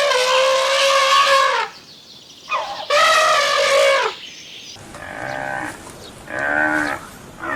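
Farm animal calls: two long, loud, steady-pitched calls, then two or three shorter, lower, wavering calls.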